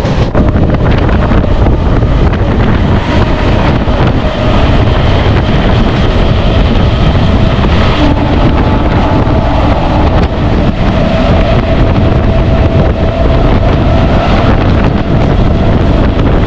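MEMU electric passenger train running, a loud steady rumble of the carriage on the track with wind buffeting the microphone. A faint thin whine comes and goes through the middle.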